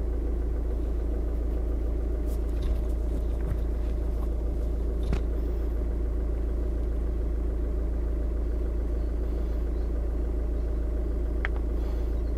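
Skoda Octavia's engine idling, heard inside the cabin as a steady low rumble and drone, with a few faint clicks.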